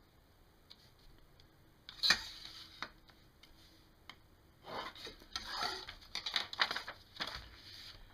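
A sheet of paper being worked on a table: a sharp tap about two seconds in, then a few seconds of scratching and rubbing as a line is drawn across the paper wing.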